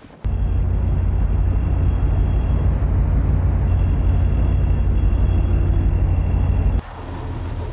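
Steady, loud low rumble of a vehicle running. It cuts in suddenly just after the start and drops abruptly to a quieter rumble near the end.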